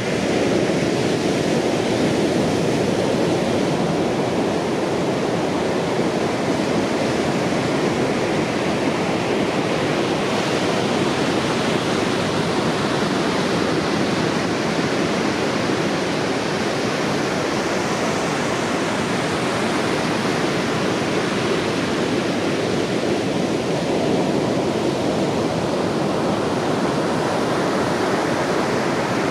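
Heavy surf from a typhoon swell, waves breaking one over another into a steady, unbroken roar.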